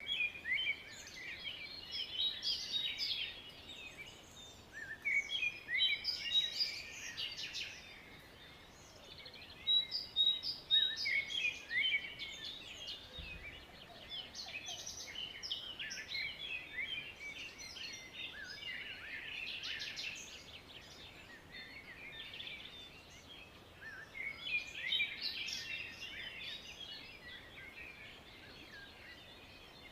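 Birds singing: bouts of quick high chirps and trills a few seconds long, with short lulls between them, over a faint steady hiss.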